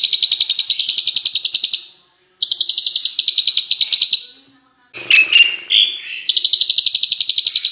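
Songbird singing a long, rapid, evenly pulsed high trill, breaking off about two seconds in and starting again. Partway through it switches to a short run of varied whistled notes that rise and fall, then goes back into the fast trill.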